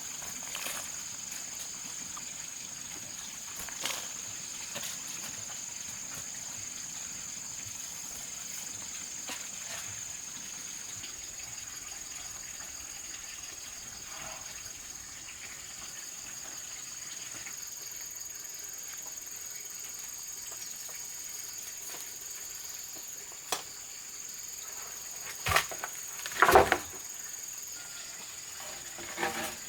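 Steady high-pitched insect chorus, with a few scattered knocks and a louder cluster of knocks near the end.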